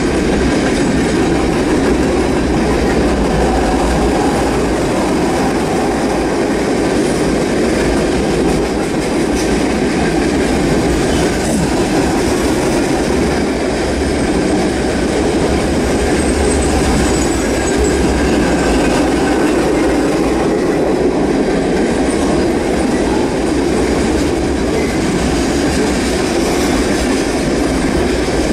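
Norfolk Southern freight train's cars rolling past close by: a steady, loud noise of steel wheels running on the rail.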